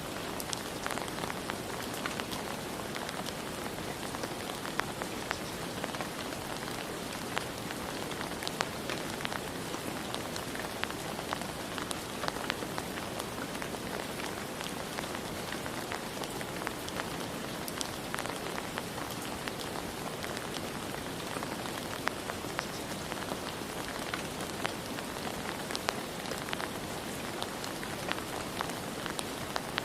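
Steady rain falling on a surface, with scattered individual drops ticking sharply through the steady patter.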